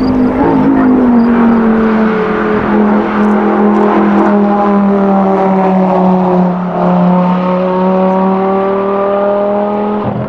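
A car engine running continuously at fairly steady revs, its pitch sinking slowly and then creeping back up a little near the end.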